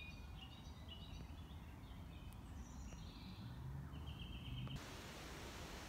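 Faint woodland birdsong: scattered short chirps and trills from small birds, over a low steady background rumble.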